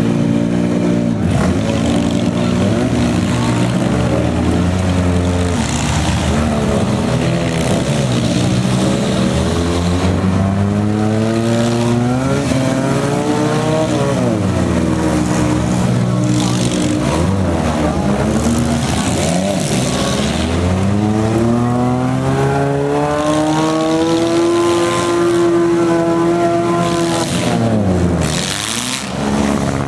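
Several demolition derby cars' engines revving hard at once, their pitch climbing and dropping again and again as the cars drive and push against each other.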